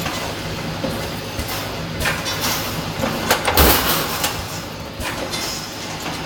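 Automatic pneumatic wire mesh welding machine working: air-driven strokes and clunks come every second or two over a steady electrical hum, the loudest a little past halfway.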